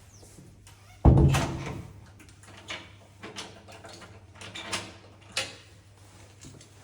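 A loud thump about a second in, then a handful of fainter knocks and clicks.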